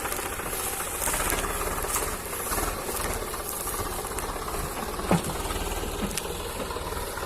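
Tractor diesel engine running under load with a steady, rapid chugging, and a single sharp knock about five seconds in.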